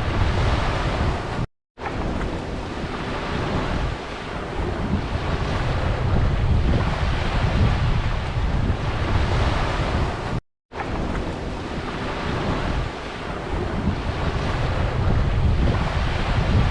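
Ocean waves washing onto a beach, with wind rumbling on the microphone. The sound cuts out completely for a moment twice, about a second and a half in and again about ten and a half seconds in.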